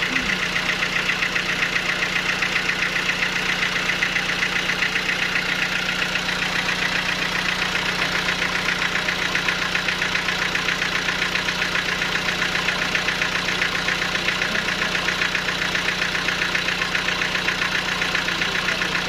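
Sawmill machinery running steadily: an even mechanical drone with a fast, regular pulse and no change in speed or load.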